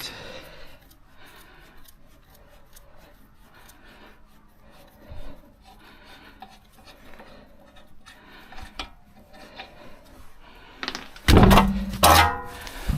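Faint rubbing and scraping of tools and parts being handled. Near the end comes a loud burst lasting about a second, with a steady low tone.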